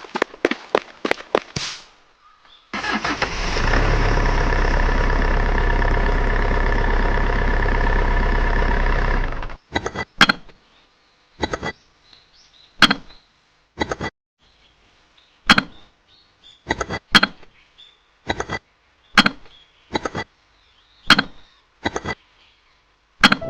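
A small motor runs steadily for about seven seconds, cutting off abruptly. Before it comes a short spell of rapid clicking, and after it a series of sharp taps, roughly one a second.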